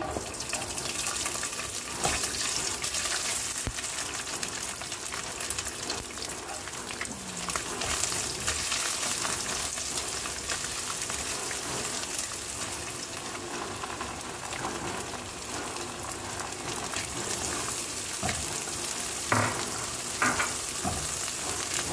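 Shredded chicken and chopped garlic sizzling in hot oil in a stone-coated wok, the steady frying hiss starting as the chicken slides in. A spatula stirs and scrapes the pan, with a few sharper scrapes near the end.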